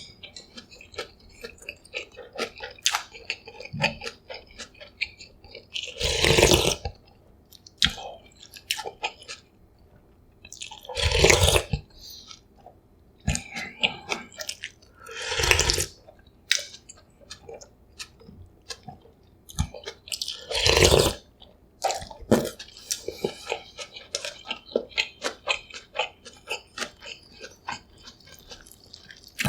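Close-miked eating of instant cup ramyun: four long slurps of noodles, each about a second, with wet chewing and small mouth clicks between them.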